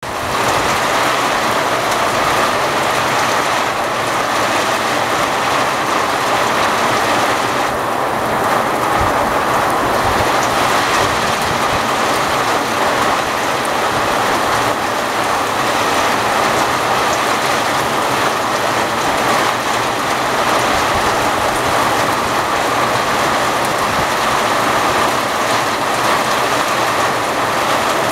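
Heavy rain falling steadily, a dense, even hiss of drops hitting the ground and surfaces.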